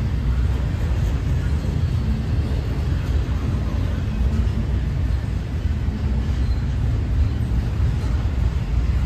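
Double-stack intermodal container train rolling past at a steady speed: steel wheels of the loaded well cars on the rails make a steady low rumble.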